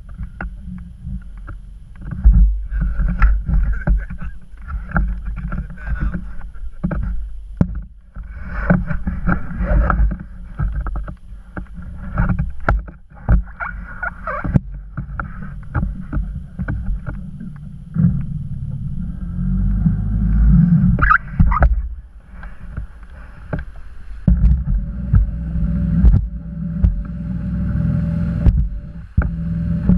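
Motorboat under way, with a heavy rumble of wind buffeting the microphone and many sharp knocks and bumps throughout.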